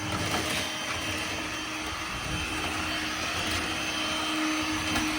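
Vacuum cleaner running steadily, a constant motor hum with a steady whining tone.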